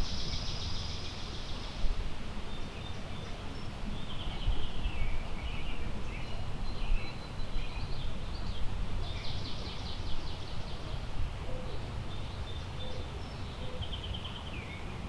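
Wind rumbling on the microphone and through the trees, with songbirds singing short, rapid trills every few seconds.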